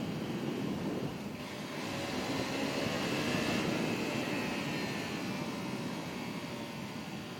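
Motorcycle engine running under way with steady wind rush on the helmet microphone, swelling louder about two seconds in and easing off toward the end.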